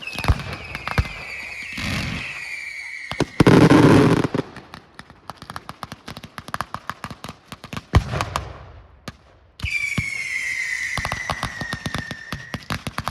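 Fireworks going off: a whistle falling in pitch, then one loud bang about three and a half seconds in, with sharp crackles all through. After a brief lull, a second whistle falls in pitch over more crackling.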